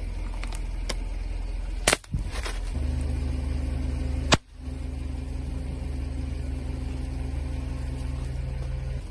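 Car engine running steadily at low revs, with two sharp cracks about two and a half seconds apart, each followed by a brief drop-out.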